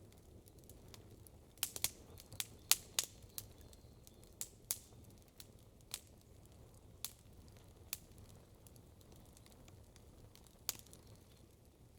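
Wood campfire crackling: sharp pops and snaps, a quick cluster of them about two to three seconds in, then single pops every second or so over a faint low hiss of the fire.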